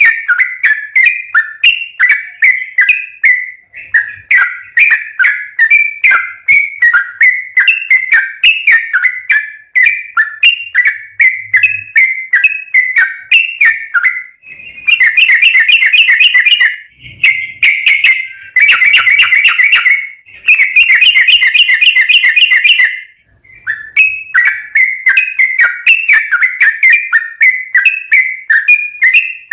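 Yellow-vented bulbul (trucukan) singing loudly in short, bubbly repeated phrases. About halfway through, the song switches for several seconds to rapid, chattering trills before the phrases resume.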